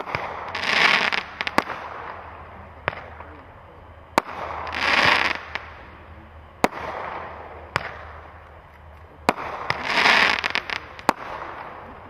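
Mummy Awakes consumer firework cake firing a volley: a sharp bang every second or two, several followed by about a second of crackling as the crackle breaks go off.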